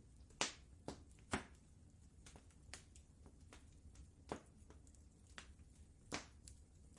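Wood fire crackling in a fireplace: irregular sharp pops and snaps, a few much louder than the rest, over a faint low rumble.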